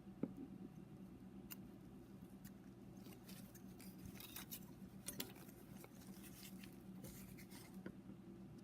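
Faint light scrapes and small clicks of a thin steel feeler gauge blade being tried between a piston ring and its groove, checking the ring's axial clearance, over a steady low hum.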